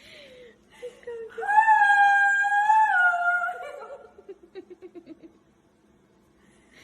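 A long, high-pitched wailing cry from an animal. It holds one pitch for about two seconds, dips, and trails off in a run of short, falling pulses.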